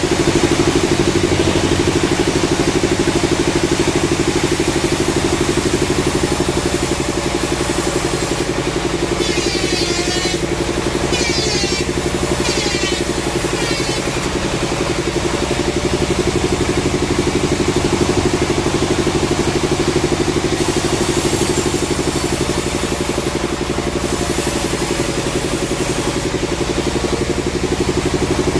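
An engine running steadily at a constant speed, with three short high-pitched sounds about ten to fourteen seconds in.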